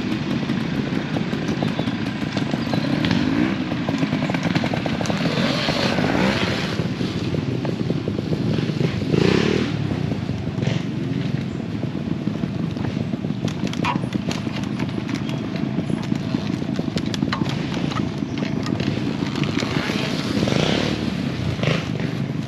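Trials motorcycle running steadily through a section, with a few short rising whines and scattered clattering ticks.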